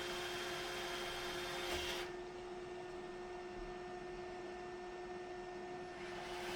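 Steady electrical-sounding hum with a constant tone over a faint hiss: room tone.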